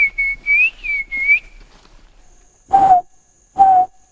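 A man whistling bird calls: a quick run of high whistled notes sliding up and down, then two loud lower hooting notes about a second apart, each dropping slightly in pitch. A thin steady high insect buzz comes in about halfway through.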